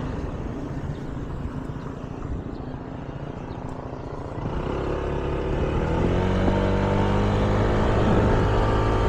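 Scooter engine running at low speed, then accelerating from about four and a half seconds in: its note rises and grows louder, and it settles into a steady cruise.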